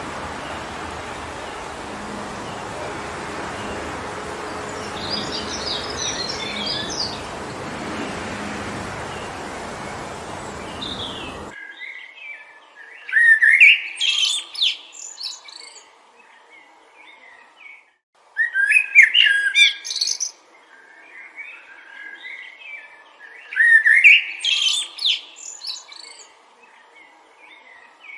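Steady wind rushing through forest trees, with a few faint bird chirps. About eleven seconds in, the wind cuts off abruptly and a songbird sings loud chirping phrases, one roughly every five seconds, with softer calls between.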